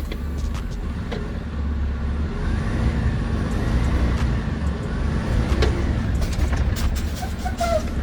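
Dump truck's diesel engine running with a steady low rumble that grows slightly louder a couple of seconds in.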